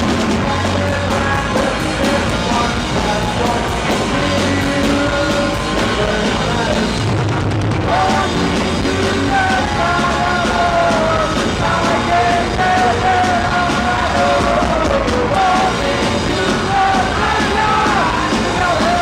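Rock band playing a punk rock song live, with a shouted, sung lead vocal over a full band.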